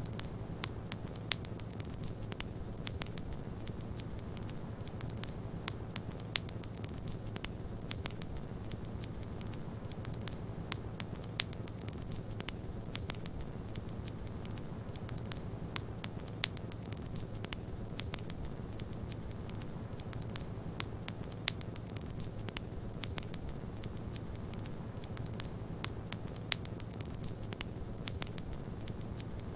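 Fireplace fire crackling, with frequent irregular sharp pops, over a steady low rush of snowstorm wind.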